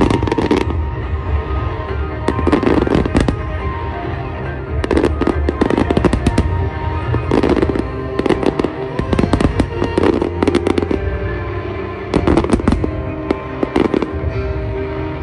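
Aerial fireworks bursting in rapid volleys, clusters of sharp bangs and crackles coming every one to two seconds, over show music playing throughout.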